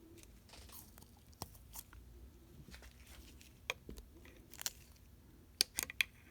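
Faint, scattered sharp clicks and light taps of small metal parts being handled: an old fuel injection unit's cold start slide valve, spring and plunger taken out by hand. The clicks come singly through the first part and bunch together near the end.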